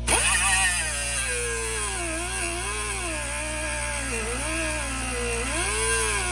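Air-powered hand tool running under load, starting suddenly, its whine sliding up and down in pitch as the load on it changes.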